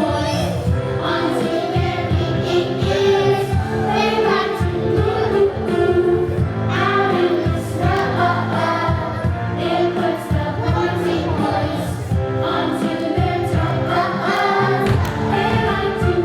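A student choir singing a holiday song with instrumental accompaniment.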